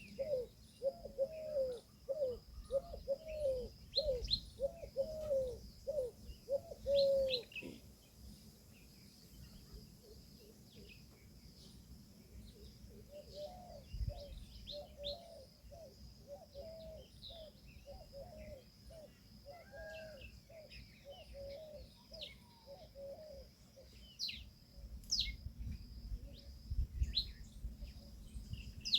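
A peahen giving a quick run of short, repeated calls, about two a second, loud for the first seven seconds or so and fainter again from about thirteen seconds in. Small birds chirp higher up throughout.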